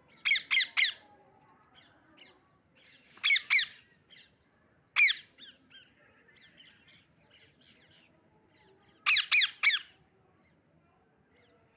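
Parrot making loud, sharp calls in quick runs of three, near the start, about three seconds in and about nine seconds in, with a single call about five seconds in and softer chirps in between.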